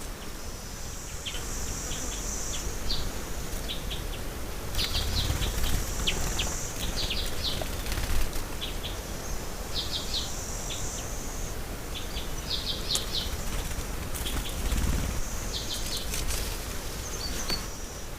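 Songbirds chirping in quick clusters of short high notes, with a high hissy trill recurring every few seconds, over a low steady rumble.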